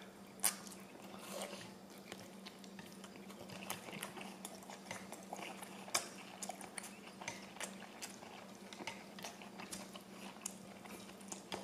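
Faint close-up chewing of a mouthful of rice noodles, with irregular soft, wet mouth clicks and a few sharper clicks as chopsticks pick at the plate, over a steady low hum.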